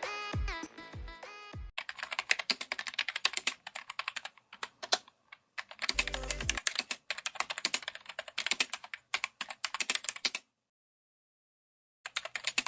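Rapid computer-keyboard typing clicks in several runs with short pauses, a brief low thump about six seconds in, and a gap of silence near the end before the typing resumes. A music track ends in the first two seconds.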